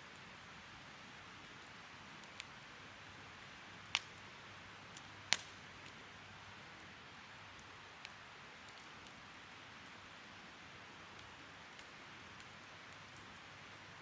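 Wood fire burning with a soft, steady hiss and a handful of sharp crackling pops, the two loudest about four and five seconds in.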